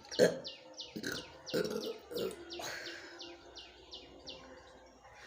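A small bird calling a fast series of short descending chirps, about three a second, that stop a little past the middle. Several short, low bursts come between them, the loudest just after the start.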